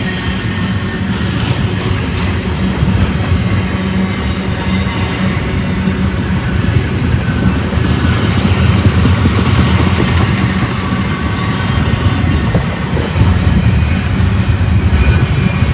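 Freight train rolling past, steel wheels clicking over the rail joints, with a steady low rumble and wind buffeting the microphone.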